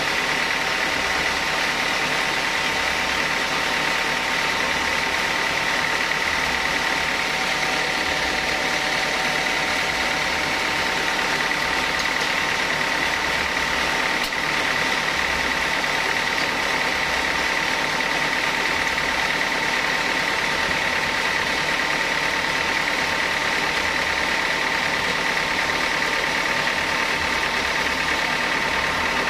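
Sawmill saw machinery running steadily, with an even engine-like drone and a constant high whine.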